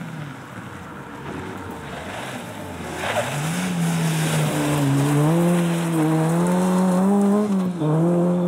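Fiat Cinquecento rally car's engine heard from inside the car: revs fall away for the first few seconds, then it picks up sharply about three seconds in and runs hard at high revs, dipping briefly for a gear change near the end.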